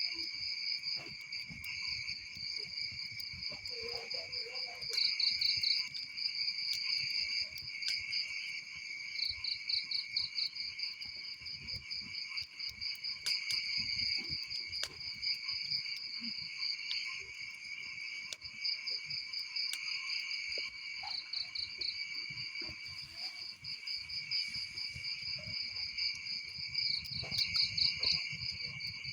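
Crickets chirping in a steady high drone broken by quick pulsed trills, over the scattered crackles and pops of a burning wood fire.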